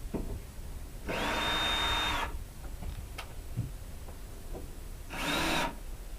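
Ryobi cordless drill running in two bursts, each with a steady high motor whine: a longer run of over a second starting about a second in, and a shorter one near the end.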